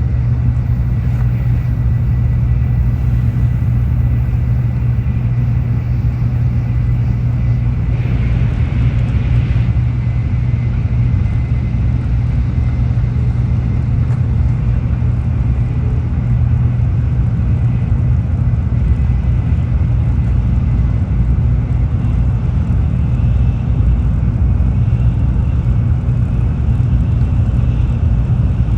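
Steady low rumble of a Tokaido Shinkansen train running, heard from inside the passenger car, with a short higher-pitched swell about eight seconds in.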